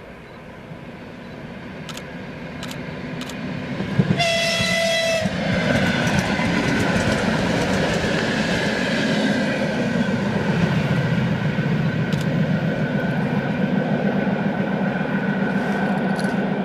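ЭР2Р electric multiple unit approaching with rising rumble and sounding one horn blast about four seconds in, lasting just over a second. It then passes close by with loud, steady wheel and rail noise.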